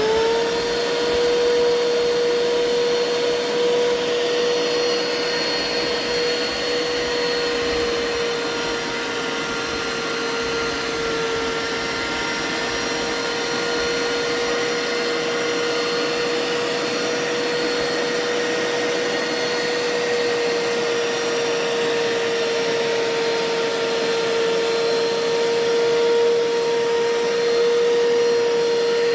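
Hoover Power Scrub upright carpet cleaner's motor running steadily at full speed: a loud, even whirring rush with a high, steady whine, sagging slightly in level and pitch partway through before picking back up.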